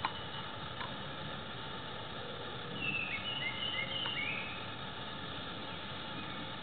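A bird chirping: a quick run of short, high chirps about halfway through, over a steady outdoor hiss.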